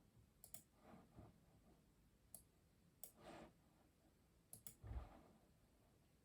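A few scattered keystrokes on a custom mechanical keyboard, some in quick pairs, with long gaps between them rather than steady typing. A few softer, duller knocks come in between, and a low thump about five seconds in is the loudest sound.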